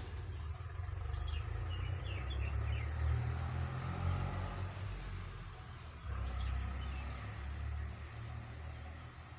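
Birds chirping in short, high calls, strongest in the first few seconds, over a loud, uneven low rumble.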